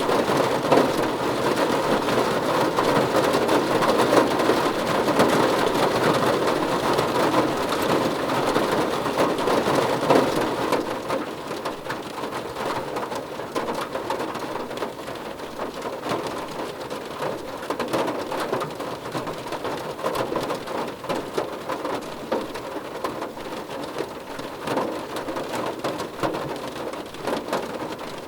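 Rain falling on a car roof, a dense patter of drops, heavier for about the first ten seconds and then easing to a lighter, steadier fall.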